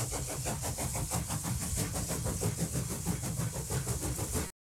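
Palma–Sóller railway train running, with a fast, even pulsing and a high hiss. It cuts off suddenly about four and a half seconds in.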